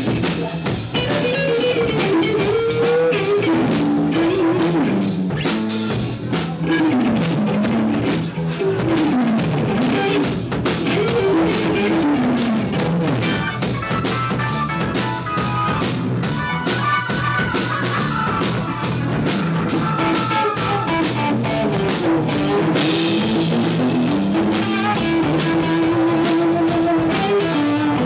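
Rock band playing: drum kit and guitar, with a melodic line sliding up and down in pitch.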